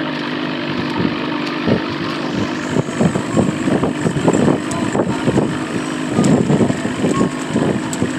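An engine running with a steady hum, with irregular louder pulses over it.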